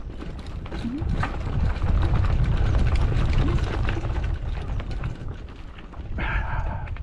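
Mountain bike rattling and knocking over a rough dirt trail, with a heavy low rumble underneath. There is a brief squeal about six seconds in.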